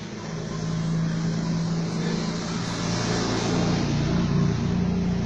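A motor vehicle's engine running steadily, getting louder about a second in.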